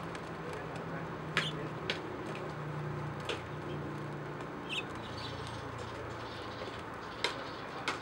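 A small bird giving short, sharp chip calls, about six spread over several seconds, one a brief high chirp, over a steady low background hum.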